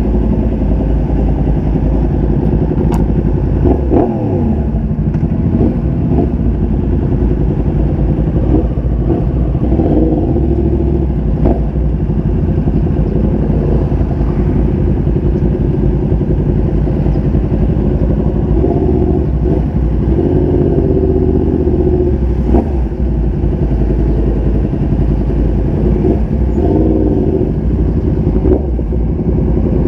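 Motorcycle engine running steadily while riding, its pitch rising and falling a few times as the throttle changes, with a few sharp clicks.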